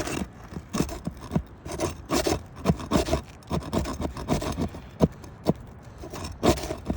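Roof shingles being pried up and scraped loose from their adhesive seal strip: irregular scraping strokes and knocks, several a second, with one sharper knock about five seconds in.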